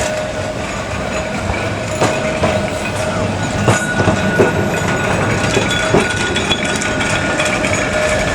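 Heritage electric tram running along the track with a steady hum and a level tone, and a few sharp knocks from the wheels over rail joints.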